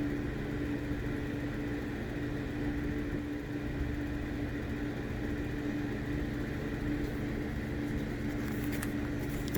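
Steady machine hum with one constant tone, with a few faint clicks near the end.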